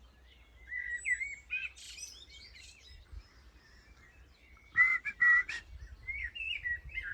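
A blackbird sings twittering, gliding phrases. About five seconds in, a person answers with a louder, close whistled call imitating the bird's 'hurdy-gurdy' call, and the blackbird replies with more song.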